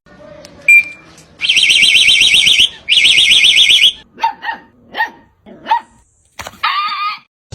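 Two long blasts of a high, fast-warbling electronic alarm, then a dog giving a few short barks and a brief wavering whine near the end.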